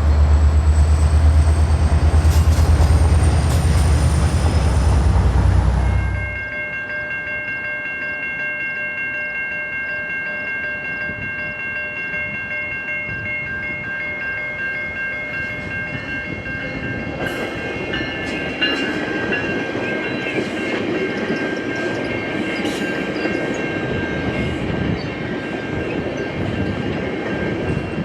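EMD F59PH passenger diesel-electric locomotive and train: a loud, deep engine rumble with a rising high whine for about six seconds. It cuts off suddenly and gives way to a quieter rail scene with several steady high tones, and from the middle onward scattered wheel clicks.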